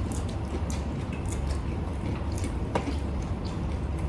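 Close-up eating sounds: irregular wet smacks and clicks of chewing, with a sharper click a little under three seconds in, over a steady low hum.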